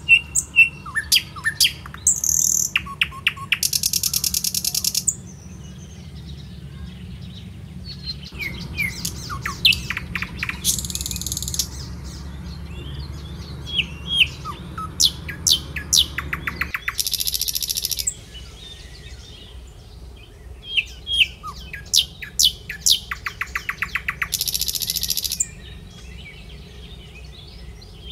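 Small birds chirping and calling in quick short notes, with a dense buzzy trill of about a second coming four times, over a steady low background noise.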